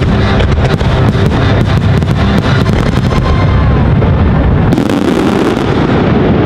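A rapid barrage of aerial fireworks bursting overhead: many sharp bangs and crackles in quick succession over a continuous low rumble, thinning out after about three seconds.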